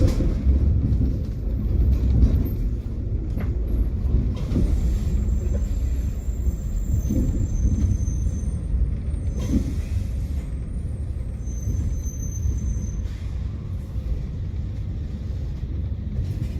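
A tram running, with a steady low rumble from its wheels and running gear and faint, thin high whines that come and go.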